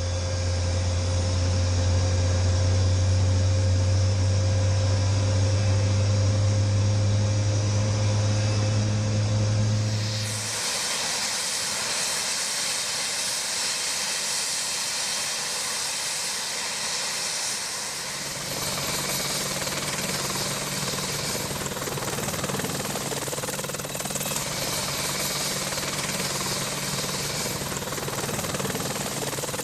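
AH-64 Apache helicopter running, a steady loud drone of engines and rotor with a strong low hum. The sound changes abruptly about ten seconds in, becoming noisier, and changes again about eighteen seconds in.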